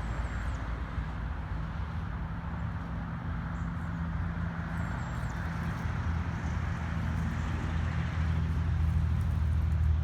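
A motor vehicle's engine running steadily, with a low hum that grows louder over the last few seconds, and a couple of faint high chirps above it.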